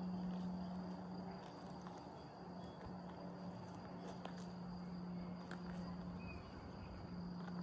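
Footsteps on a path with scattered crunching clicks, over a steady high trill of insects such as crickets and a low steady hum that breaks off briefly a few times.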